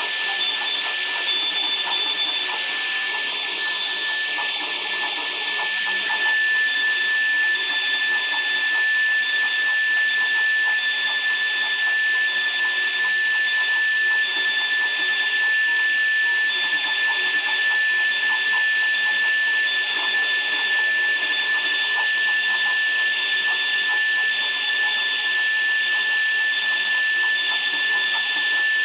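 Electric woodworking power tool running steadily, with one high constant whine over a dense hiss.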